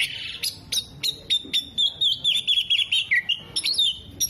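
Oriental magpie-robin (kacer) in full song: a run of sharp chirps, then a fast warbling trill that dips at the end, in a song laced with mimicked calls of other birds.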